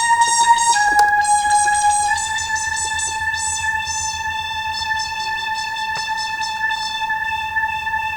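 Roland M-DC1 synth sound module playing a single held note with a bright, buzzy tone. Its pitch steps down about a second in, rises slightly a second later, then holds steady with a fast flutter in the upper overtones.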